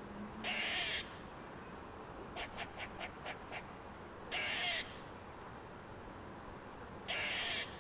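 Squirrel calling in alarm: three harsh, rasping calls of about half a second each, with a quick run of about seven short chips between the first two.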